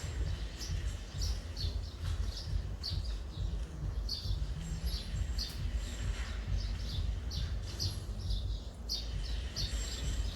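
Small birds chirping in quick, repeated short calls over a constant low rumble.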